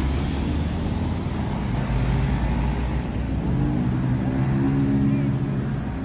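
A motor vehicle's engine running close by, a steady low hum.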